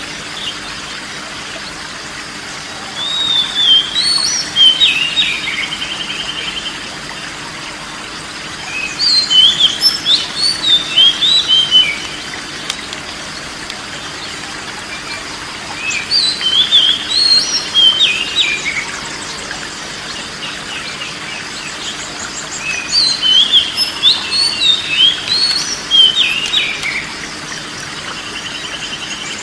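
Oriental magpie-robin (kacer) singing in four bursts of a few seconds each, quick whistled phrases with rising and falling notes, over a steady hiss.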